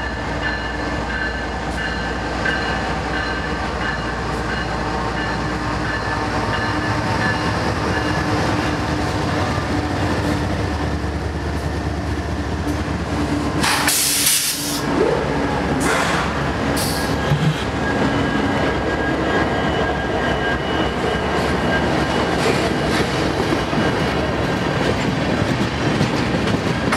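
BNSF freight train passing close by. The diesel-electric locomotives' engines give a steady drone in the first half, then a long string of tank cars rolls past with wheels clicking over the rail joints. There is a brief hiss about halfway through.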